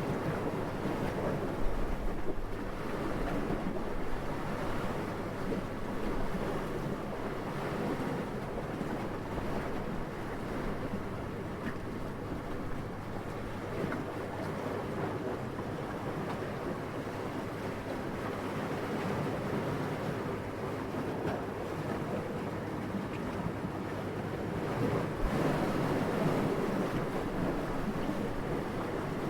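Steady, soft wind noise with no pitch, swelling in a gust near the end, with a brief low bump about two seconds in.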